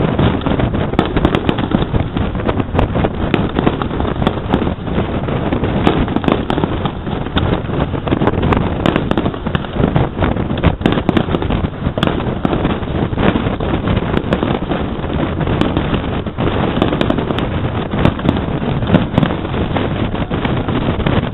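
Aerial firework shells bursting in a dense, irregular run of bangs and crackles, over a steady rumble of wind on the microphone.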